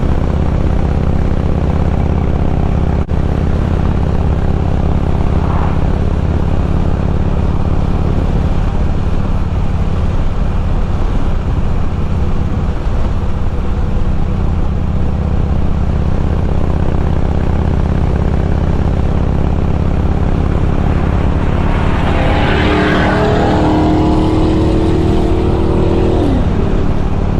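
Harley-Davidson Road King's V-twin engine running steadily while riding on the road. Near the end a higher note rises and then falls away.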